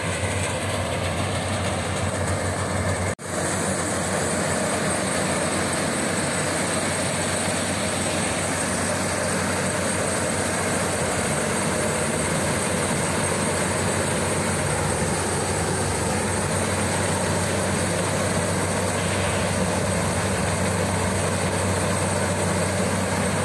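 Zmaj 142 combine harvester running steadily while harvesting corn, a constant engine drone with a low hum, broken by a brief dropout about three seconds in.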